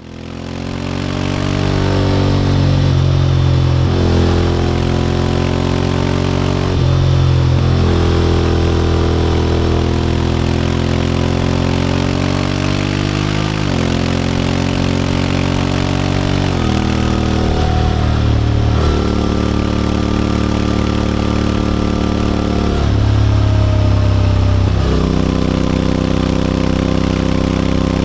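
Honda X-ADV 750's parallel-twin engine through an SC-Project titanium slip-on exhaust, pulling through the gears on the move: its pitch climbs and then drops sharply at each gear change, several times over, with wind noise underneath.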